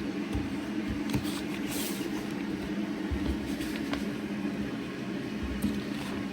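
1991 Zanussi washing machine running steadily, filling with water for a wash cycle, with a constant hum. A few light clicks and rustles, and a short hiss about two seconds in.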